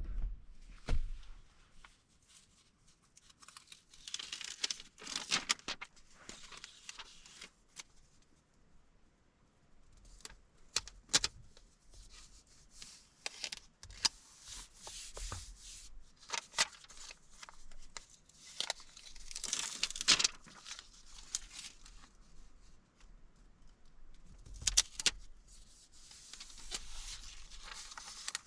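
Paper being handled for planning: bursts of rustling, crinkling and tearing, with scattered small clicks and taps in between.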